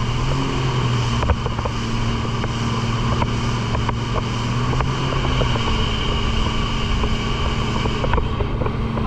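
Jet ski engine running steadily under way, a constant low drone, with wind buffeting the microphone.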